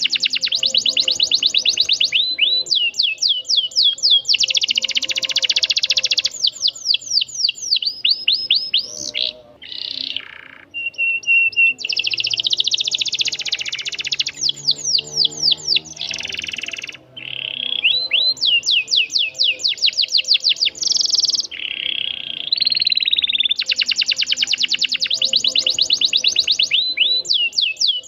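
Domestic canary singing long rolled trills: fast runs of rapidly repeated notes and quick upward-sweeping whistles, with short breaks about ten and seventeen seconds in.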